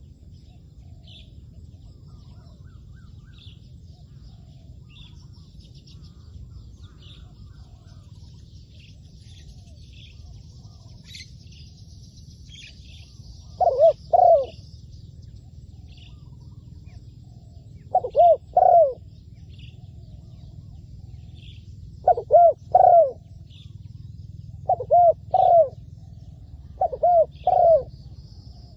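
Spotted dove cooing: five loud phrases of two or three arching coos, starting about halfway through and coming every few seconds. Small birds chirp faintly throughout.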